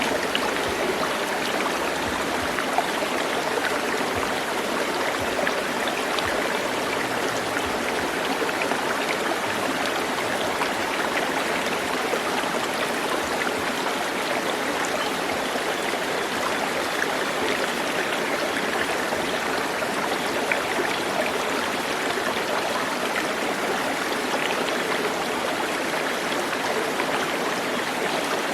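Steady, unbroken rush of running water, like a stream flowing over rocks.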